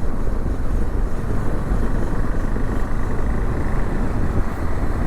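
KTM 390 Adventure single-cylinder motorcycle under way, its engine and road noise running steadily under heavy wind noise on the rider's microphone.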